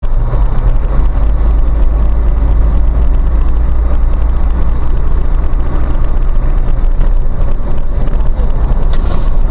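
Car driving, with a loud steady low rumble of engine and road noise that starts abruptly.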